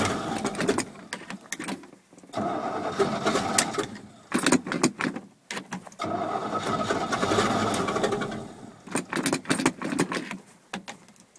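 1979 Chevy 350 V8 being cranked over by its starter in three spells of a few seconds each, with short clicks in between, not catching. The engine is flooded with old gas.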